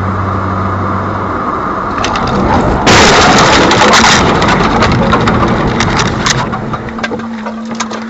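Vehicle engine and road noise heard from inside a car, then a loud crash about three seconds in, followed by crunching and clattering as the collision plays out.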